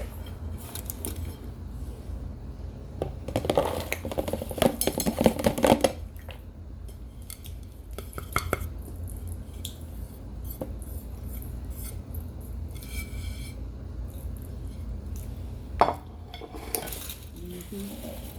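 Dishes and cutlery clinking and clattering, with a busy run of rattling knocks in the first few seconds and scattered single clinks and knocks after that.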